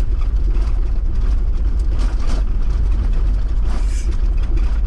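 Inside the cab of a Toyota 4x4 driving on snow-covered roads: steady low engine and tyre rumble, with brief swells of hiss about two seconds in and again near four seconds.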